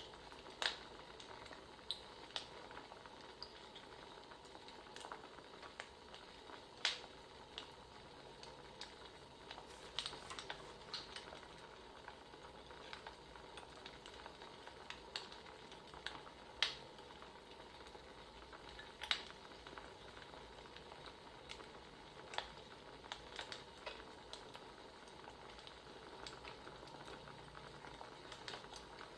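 Wood fire crackling: a faint steady hiss with irregular sharp pops, a few of them louder than the rest.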